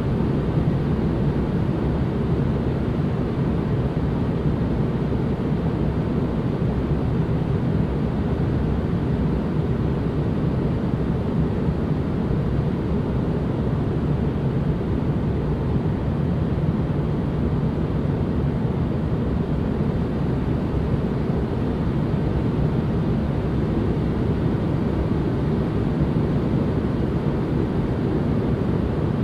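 Steady relaxation noise track: an unbroken, even hiss weighted to the low end, heard as a deep rumble with little treble.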